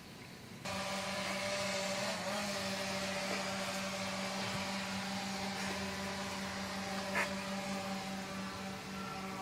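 A steady mechanical hum with a buzzing tone that starts abruptly about a second in, with a short click near the end.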